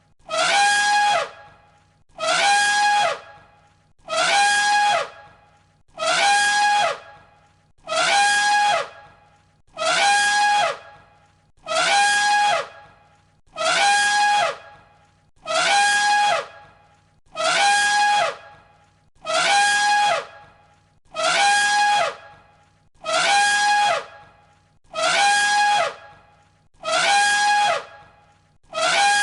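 An elephant trumpet call played on a loop, the same call repeating about every two seconds, some sixteen times. Each call is a short loud blast held on one high pitch that falls away at its end.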